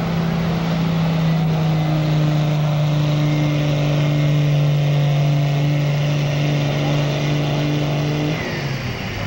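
Diesel pickup truck engine held at high revs under load, pulling the weighted sled down the track with a steady, unchanging note. It backs off near the end.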